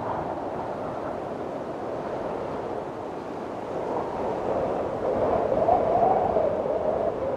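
Windstorm wind blowing steadily with a wavering, whistling tone. A gust swells louder about five seconds in and eases near the end.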